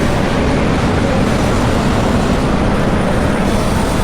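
Small vehicle being driven steadily: a loud, continuous rumble and rush of noise that does not change.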